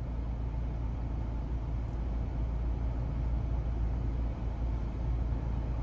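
Steady low rumble and hum heard inside a stationary car's cabin, typical of the engine idling.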